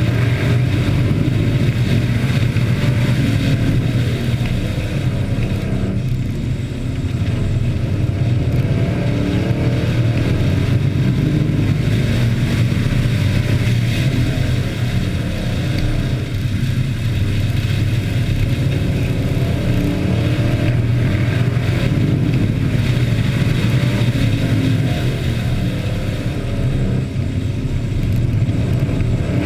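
Several hobby-class race trucks' engines running together on a speedway oval, the pitch rising and falling as they accelerate and lift through the laps.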